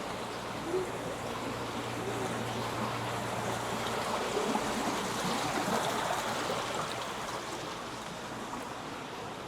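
Steady rushing of running water, swelling a little in the middle, with a low steady hum under it for the first four seconds.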